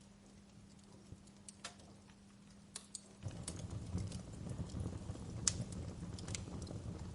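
Campfire crackling, with scattered sharp pops and snaps of burning wood. About three seconds in, a low rush comes up and the fire runs louder from there on.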